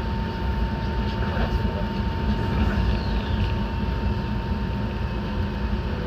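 Enoshima Electric Railway train running, heard from inside the car: a steady low rumble of wheels and running gear with a thin constant whine above it, and a faint falling whine about three seconds in.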